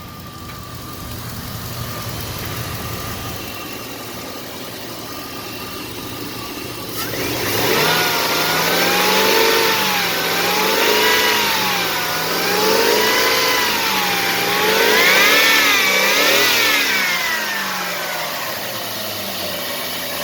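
2000 Jeep Grand Cherokee engine with 194,000 miles idling on a run test, then revved up and down several times from about seven seconds in, settling back toward idle near the end.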